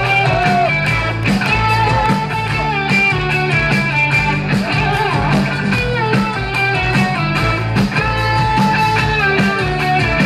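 Live rock band playing an instrumental break between verses of a song, with bass and drums keeping a steady beat under a melodic lead line.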